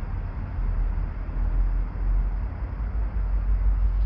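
Steady rush of flowing river water, with a low rumble that swells and fades underneath.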